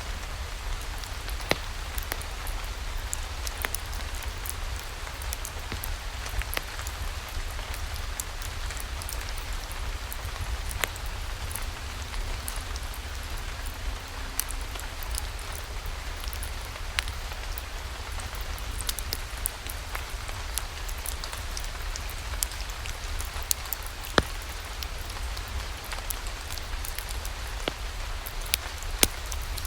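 Steady rain falling, with scattered sharp clicks and pops throughout and a deep steady rumble underneath.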